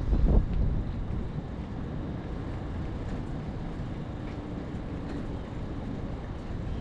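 Low rumble of city traffic, louder in the first half second and then steady.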